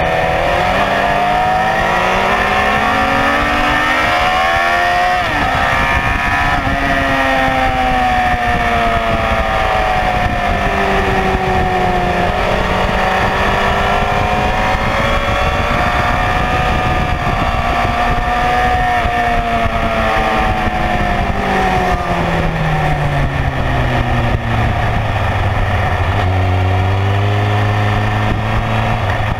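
Honda CBR954RR's inline-four engine heard from on board at track speed, its revs climbing and dropping through gear changes and braking, with wind rush over it. Near the end the revs fall to a low, steady note as the bike slows.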